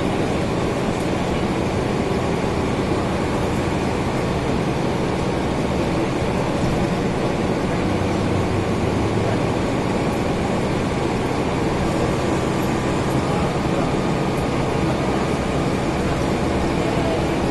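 Mercedes-Benz O405N city bus heard from inside the cabin: its engine running steadily together with the air-conditioning blowing, with road noise.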